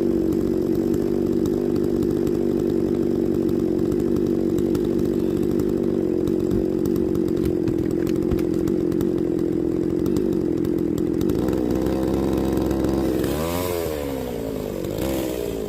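A small engine running steadily at an even pitch. It drops back about two seconds before the end, with its pitch swinging up and down.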